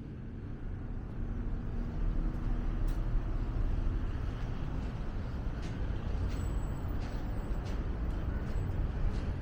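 Road traffic: a low, steady vehicle rumble that grows louder about a second in, as of heavy vehicles passing close by.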